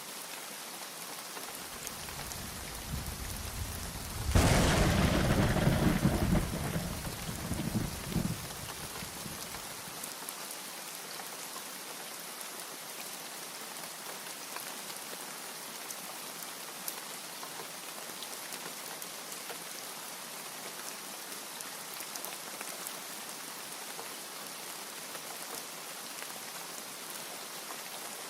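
Steady rain falling, with a clap of thunder about four seconds in that rolls on and fades out over the next several seconds.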